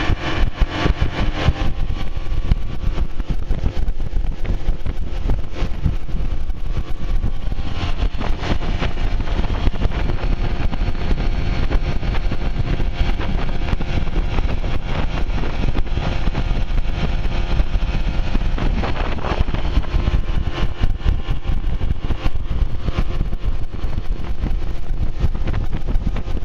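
A 1991 Mercury 40 HP two-stroke four-cylinder outboard running under way at speed, loud and steady throughout.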